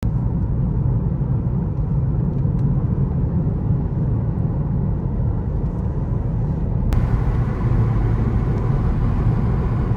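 Steady low rumble of a moving vehicle, with a sharp click about seven seconds in.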